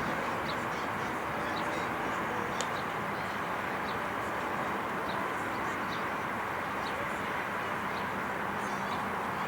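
Steady outdoor background noise with many short, high chirps of small birds scattered through it.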